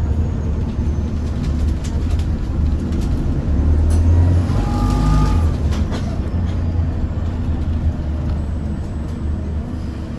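Bus engine and road noise heard from inside a moving bus: a steady low rumble, with a brief pair of high tones about five seconds in.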